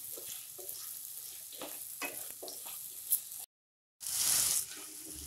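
Potato cubes sizzling in hot oil in a non-stick kadai, with the spatula scraping and knocking against the pan as they are stirred. The sound drops out completely for about half a second a little past halfway, then comes back with a brief louder hiss.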